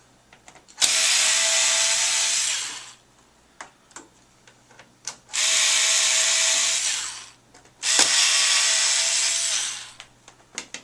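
Power screwdriver backing screws out of a console's keyboard tray: the motor runs three times for about two seconds each, with small clicks of screws and the bit in the pauses between.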